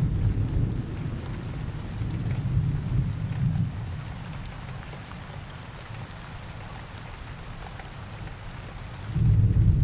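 Steady rain with scattered drops and low rolling thunder: one rumble fades out over the first four seconds and another swells up near the end.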